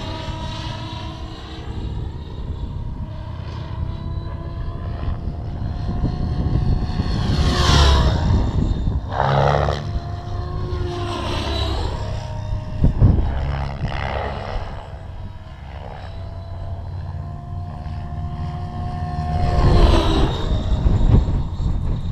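Align T-Rex 700 Pro RC helicopter in flight, its rotor and drive whine rising and falling in pitch as it makes passes back and forth. Gusty wind rumbles on the microphone underneath.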